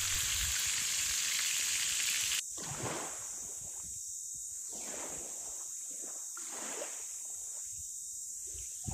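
Squid frying in a pan, a steady sizzle for about two and a half seconds that cuts off abruptly. It is followed by quieter water sloshing in uneven surges.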